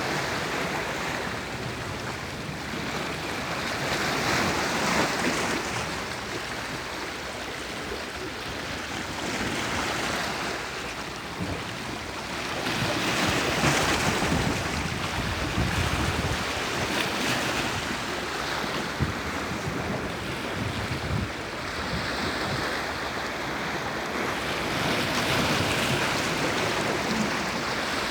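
Sea waves breaking and washing in, the surf swelling and easing every few seconds.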